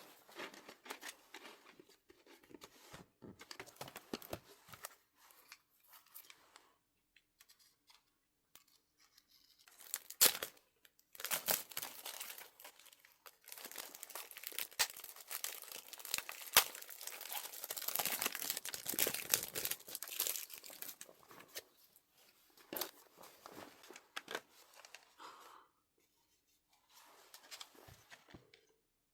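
Album packaging being torn open and its wrapping crinkled by hand, in stop-start bursts, densest and loudest in the middle with a few sharp clicks.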